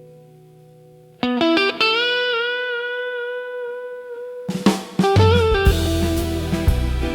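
Instrumental blues intro: a fading chord gives way about a second in to a loud guitar phrase with a bent, held note, then drums and bass come in around five seconds for a full band groove.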